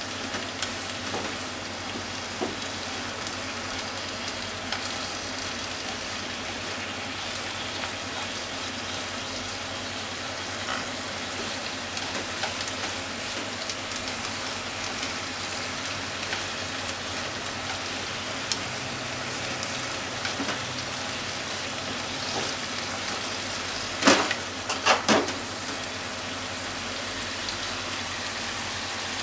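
Sliced pork and onions sizzling steadily in sauce in a frying pan, stirred with wooden chopsticks that click against the pan now and then. A few sharp knocks in quick succession come about three quarters of the way through.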